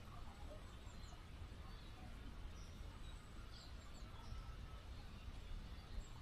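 Faint steady flow of a small river, with a few short, faint bird chirps scattered through.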